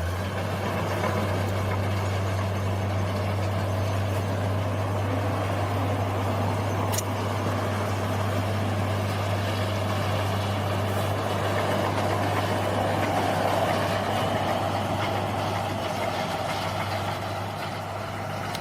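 Bulldozer's diesel engine running steadily, a constant low drone with mechanical clatter over it, and a single sharp click about seven seconds in.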